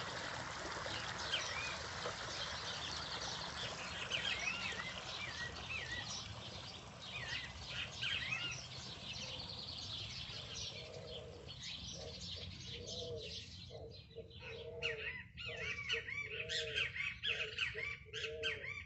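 Birds chirping, many short quick calls over a steady rushing noise that thins out about three-quarters of the way through. In the second half a lower call repeats over and over alongside the chirps.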